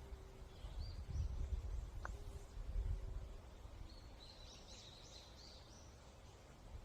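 Wind in a forest, a low rumble that swells and fades in gusts, with small songbirds chirping high: a single chirp about a second in and a quick run of chirps from about four seconds.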